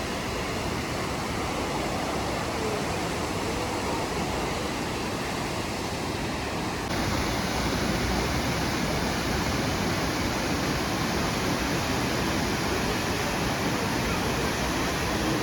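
Waterfall: a steady rushing roar of falling water, a little louder from about seven seconds in.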